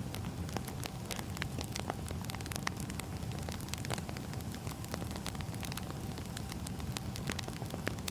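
Wood fire burning: a steady low rumble with frequent small, irregular crackles and pops of the burning logs.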